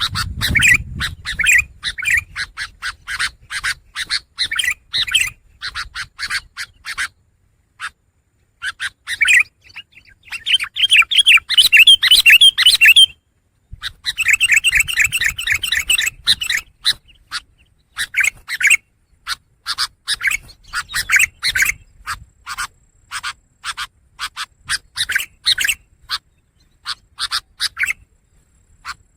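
Long-tailed shrike (pentet) singing: a run of short, harsh calls broken by brief pauses, with two long, fast chattering phrases in the middle.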